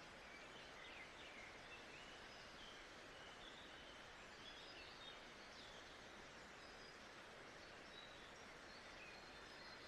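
Faint nature ambience: a steady soft hiss with scattered short bird chirps and whistles.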